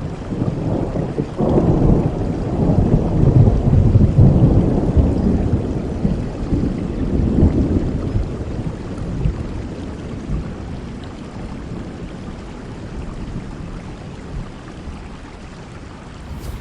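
A roll of thunder over steady heavy rain: the rumble breaks in suddenly about a second and a half in, swells for a few seconds, then fades away, leaving the rain.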